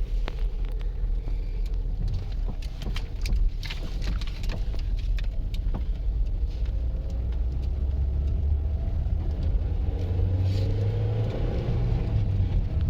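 Strong blizzard wind buffeting the microphone as a steady low rumble, with a run of crackling clicks and crunches from about two to six seconds in.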